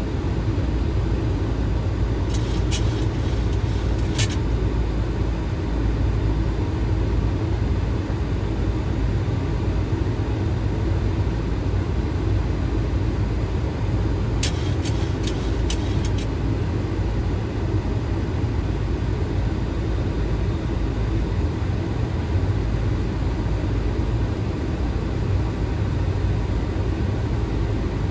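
Steady Boeing 737 flight-deck noise on approach, the low rush of airflow and engines, with two brief clusters of sharp clicks, a few seconds in and again about fifteen seconds in.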